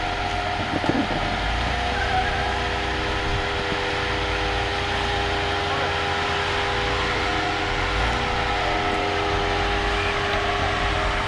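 Off-road vehicle's engine running steadily at low speed as it crawls through a rocky trail obstacle, with a constant hiss behind it.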